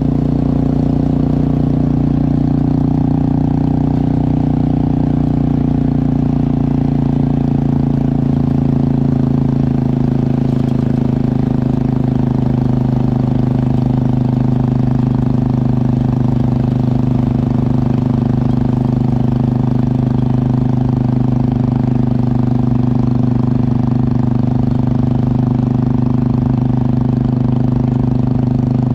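Motorcycle engine running steadily at a near-constant pitch.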